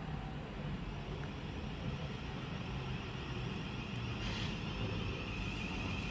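Thameslink Class 700 electric multiple unit close by, with a steady low rumble. About four seconds in there is a brief hiss, then a steady high-pitched tone that carries on.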